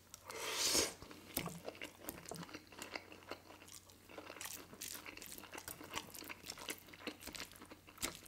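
Close-miked eating of a big mouthful of noodles: a loud slurp as the forkful goes in, about half a second in, then steady wet chewing and mouth smacking, made up of many small clicks.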